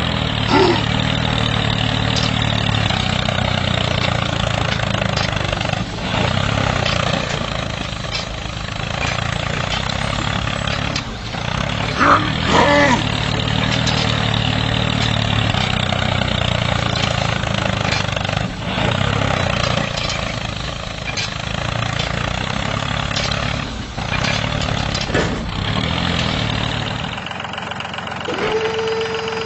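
The mini tractor's small engine runs steadily, with a few brief dips. A steady, higher whine joins near the end.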